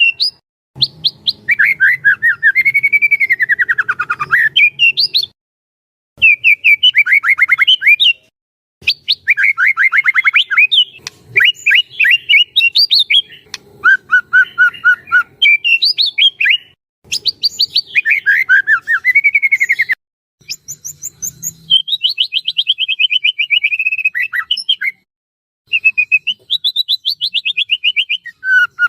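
White-rumped shama singing in full voice, a loud, varied song of quick repeated notes that sweep up and down. The song comes in phrases of a couple of seconds each, with short pauses between them.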